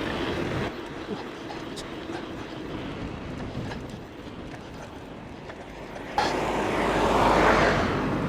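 Riding noise from a moving bike: wind and tyre rush, with a sudden louder gust of noise about six seconds in.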